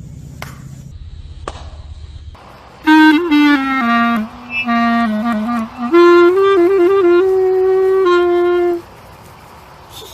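Clarinet-like wind instrument playing a short tune of held notes with a few quick changes, starting about three seconds in after a low hum.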